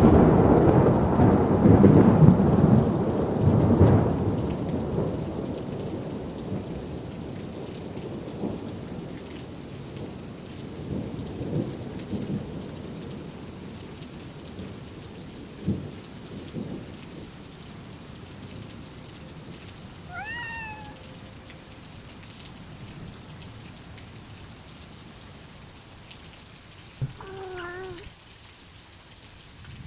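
Thunder rolling over steady rain, loudest in the first few seconds and fading away over the next several. A cat meows twice, once about two-thirds of the way in and again near the end.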